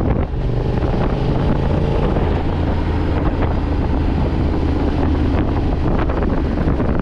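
Yamaha Ténéré 700's parallel-twin engine running steadily while the motorcycle is ridden, under heavy wind rushing over the microphone.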